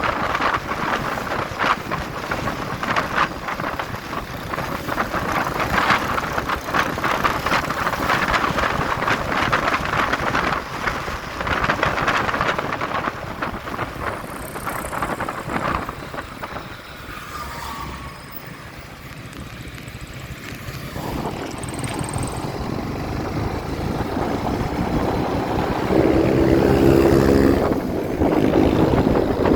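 Motorcycle on the road, with wind rushing over the microphone over the engine. The rush eases about two-thirds of the way through, and near the end a louder, steady pitched engine drone comes in.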